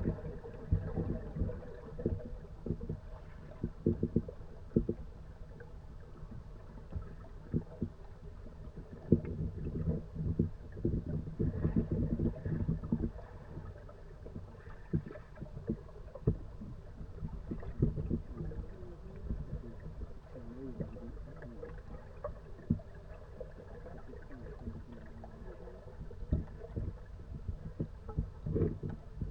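Kayak being paddled: irregular knocks and water sounds from the paddle, over a low rumble like wind or handling on the camera microphone.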